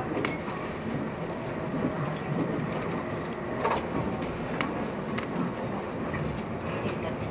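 Train running, heard from inside a passenger car: a steady low rumble of wheels on the rails, with a few sharp clicks.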